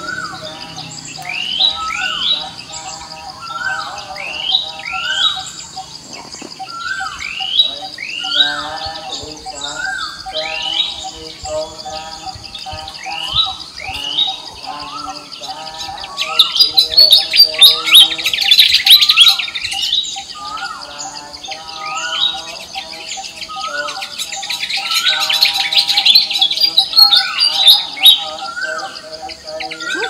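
Birds calling, with a rising chirp repeated about once a second over a steady high drone. Two louder spells of squawking and chattering break in, one about halfway through and another near the end.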